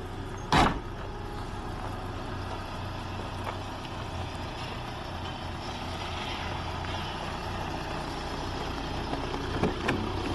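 Audi A6 2.0 TDI four-cylinder diesel engine running steadily, with a single sharp thump about half a second in.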